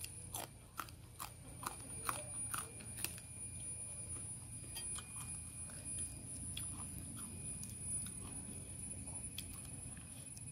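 Close-up crunching and chewing of a crisp green vegetable, with a quick run of sharp crunches in the first three seconds. Fainter, scattered snaps and crackles follow as the eating goes on.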